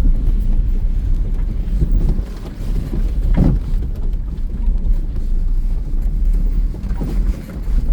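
Taxi driving along the road, heard from inside the cabin: a steady low rumble of engine and tyres, with wind buffeting the microphone.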